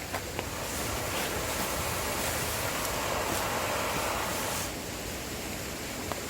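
Fire burning inside the cuts of a Swedish torch log: a rushing hiss that swells about a second in and dies back after about four seconds, with a few faint crackles.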